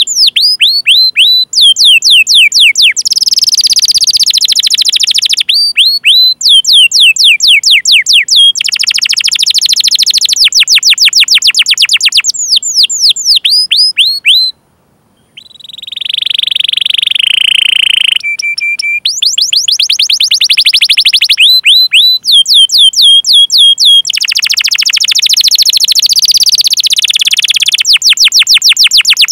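Domestic canary singing: runs of loud downward-sweeping "cuit cuit" chirps, several a second, alternate with fast rolling trills. There is a brief break about halfway through.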